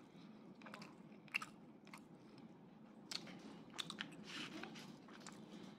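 Close-up chewing and biting of grilled chicken leg and fried rice, with a scatter of short sharp clicks, several close together about three to four seconds in.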